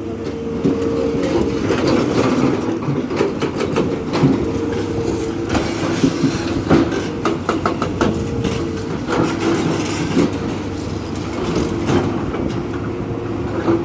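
Diesel engine of heavy construction machinery running, with a steady whine and many sharp metallic clanks and knocks throughout.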